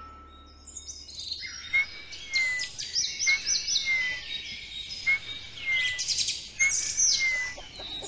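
Birds chirping and twittering. A whistled call slurring down in pitch repeats about four times, roughly every second and a half, among quicker high twitters; it starts about a second in.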